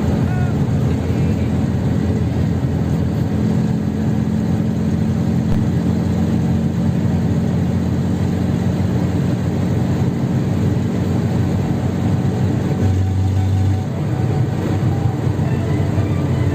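Fiat 126p's air-cooled two-cylinder engine running steadily as the car drives. About thirteen seconds in, its note changes briefly and the level dips, then the engine picks up again.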